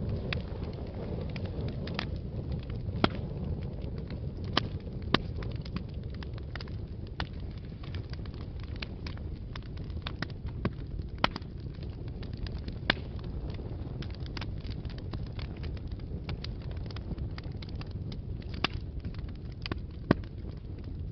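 Fire burning in a fireplace: a steady low rumble of flames with irregular crackles and pops, several of them sharper and louder than the rest.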